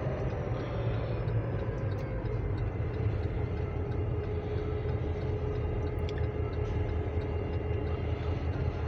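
Steady low rumble of a heavy vehicle running, with a faint tone that slowly falls in pitch over the first few seconds.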